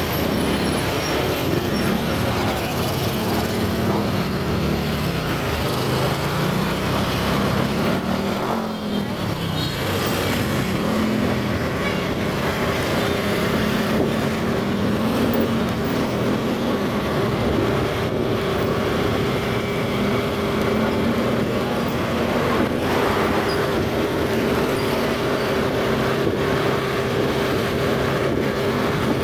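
Motorcycle engine running on the move, its pitch rising and falling with the throttle, over steady road and traffic noise. It settles into a steadier, higher note in the second half.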